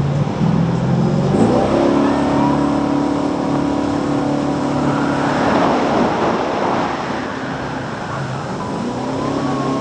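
High-speed jet boat engine revving up hard about a second and a half in, then running at high revs. A rushing noise swells in the middle, the revs ease off, then the engine climbs again near the end.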